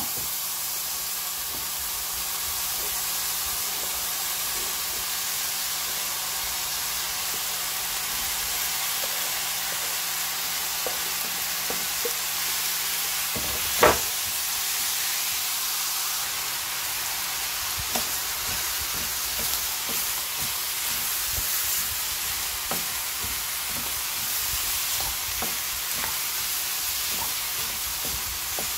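Ground pork and chopped onion, carrot, green onion and chili sizzling in oil in a frying pan, stirred with a wooden spatula that scrapes and clicks against the pan. One sharp knock about halfway through.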